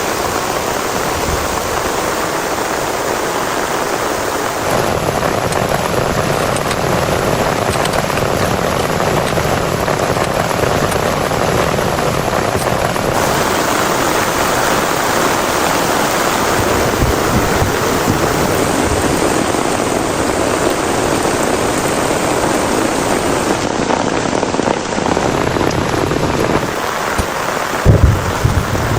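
Heavy rain falling steadily, with low rolls of thunder, the loudest one near the end.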